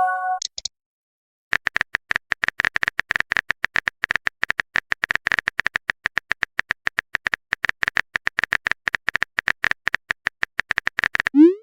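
Rapid, irregular keyboard-typing clicks of a messaging sound effect, starting about a second and a half in and running for about ten seconds. It opens on the tail of a short electronic chime and ends on a rising tone.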